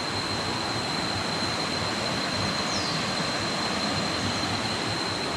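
Steady rush of falling and running water from a waterfall on a jungle river, with a thin, steady high-pitched whine over it.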